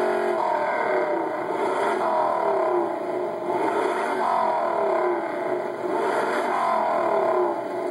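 Dodge Charger engine revved again and again, its pitch climbing and falling about once a second, heard through a television's speaker.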